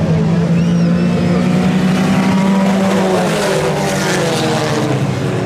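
Several IMCA Sport Compact race cars' four-cylinder engines running hard together at high revs, with the engine pitches shifting and sliding as cars go past.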